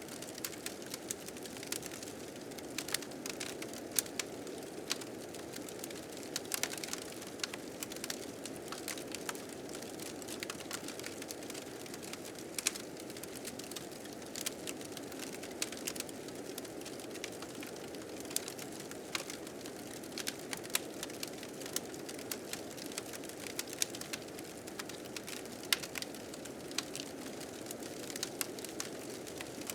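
Wood fire crackling with frequent irregular sharp pops, over a steady low rush of blizzard wind.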